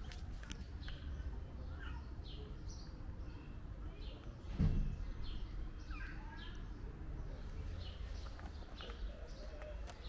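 Small birds chirping again and again in short, high, falling notes over a low steady background hum, with one low thump about halfway through.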